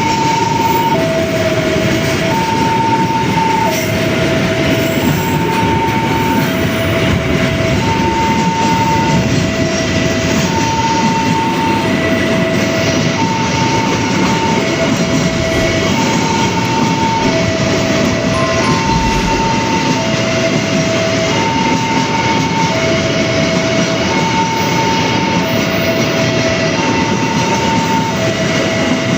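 A train passing close by with a loud, steady rolling rumble and rattle. Over it a level-crossing warning alarm sounds evenly: alternating high and low tones, each a bit over a second long.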